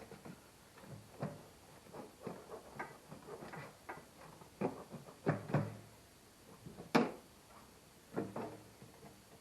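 Engine parts being handled and fitted by hand: irregular clunks, clicks and light rattles, with a sharp click about seven seconds in.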